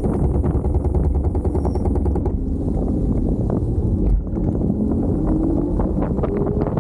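Wind buffeting the microphone and a steady low road rumble during a ride on a Kaabo Wolf King GT Pro electric scooter, with small rattles and clicks throughout. A whine rises in pitch about two-thirds of the way in.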